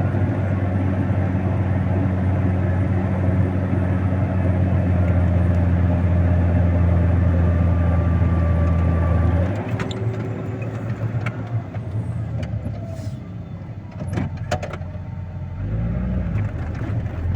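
Snow-clearing machine's engine running steadily under load, heard from the cab. About ten seconds in the engine note drops and quietens, with a few knocks, and near the end the revs rise again in sweeps.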